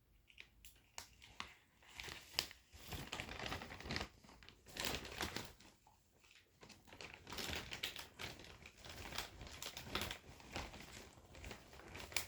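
Plastic snack packaging crinkling and rustling as it is handled and opened, in irregular crackles with a short lull about six seconds in.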